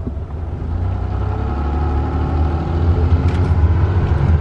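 Car engine running, heard from inside the cabin as a low rumble with a faint hum above it, growing gradually louder.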